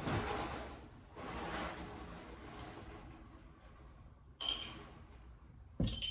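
Glass pint canning jars clinking as they are handled with tongs, one sharp ringing clink about four and a half seconds in and a knock with another clink near the end. The first couple of seconds hold soft scraping noise.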